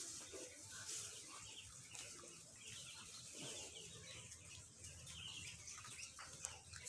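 Faint birds chirping in the background: short, high chirps scattered throughout.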